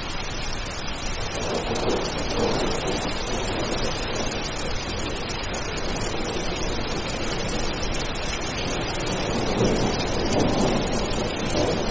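Steady rain falling as an even hiss, with a low rumble of thunder swelling up about two seconds in and again near the end.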